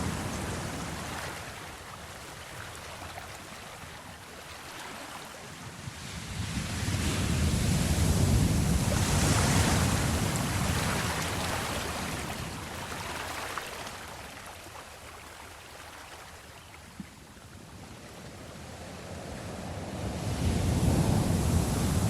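Sea waves surging and ebbing in slow swells, with wind. The wash builds to a peak about halfway in, fades away, then rises again near the end.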